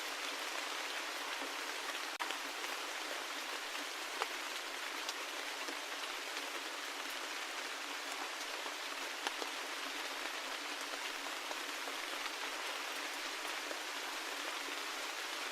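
Steady rain, with scattered individual drops tapping sharply now and then.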